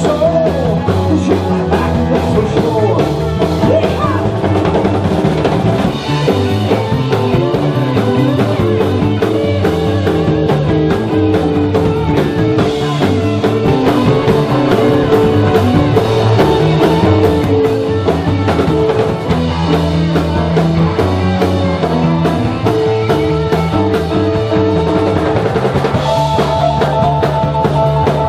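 Live blues-rock band playing, with drum kit, bass and guitar over a steady beat.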